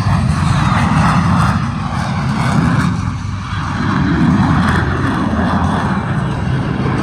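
Jet noise from Blue Angels F/A-18 Hornets flying past: a loud, steady rush that dips briefly about three seconds in and then swells again.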